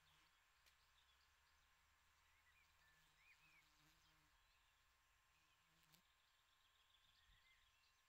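Near silence: faint open-air ambience with a few faint, distant bird chirps and two brief faint clicks.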